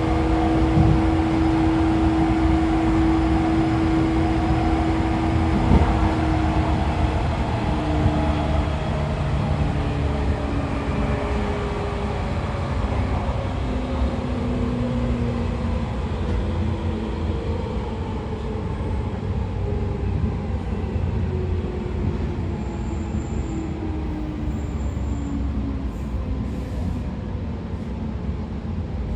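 A 113 series electric train heard from inside a motor car with MT54 DC traction motors, running along with a rumbling ride. The motor and gear whine sinks slowly and steadily in pitch as the train loses speed.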